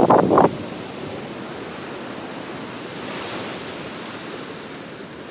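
Steady rushing noise that swells slightly about three seconds in.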